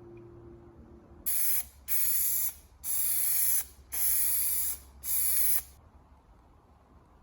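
Five short bursts of spraying hiss from a spray nozzle, each about half a second to a second long, with brief gaps between them.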